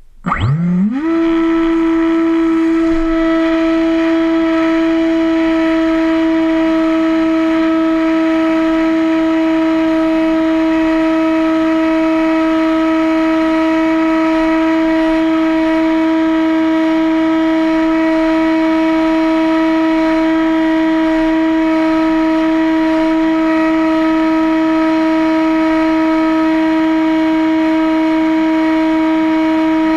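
Electric motor with propeller spinning up within about a second, then holding a steady, unchanging whine at constant speed.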